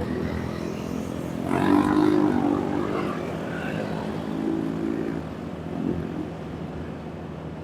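Vehicle engines running in road traffic, with a louder swell about one and a half seconds in, then smaller rises near the middle and end.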